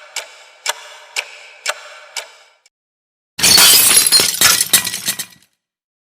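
Clock ticking about twice a second for five ticks, then stopping; about a second later a pane of glass shatters in a loud crash, with scattered clinks of breaking pieces over about two seconds.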